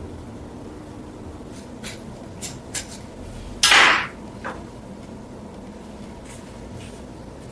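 Workshop handling sounds: a few light clicks and knocks, then one louder, noisy burst lasting about half a second just after the middle, and a final click, over a steady low hum.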